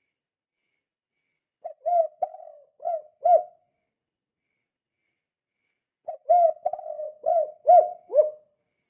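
Spotted dove cooing: a short phrase of several low coos about two seconds in, then, after a pause, a longer, quicker phrase of coos from about six seconds in.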